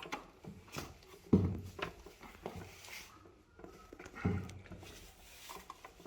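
Tools working at a stubborn bolt on an electric unicycle's frame: scattered clunks, clicks and rubbing, with a sharp knock about a second in and another about four seconds in.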